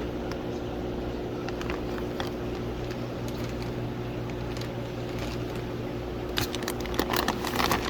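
Steady mechanical hum of running equipment with several fixed low tones, with a few sharp clicks near the end.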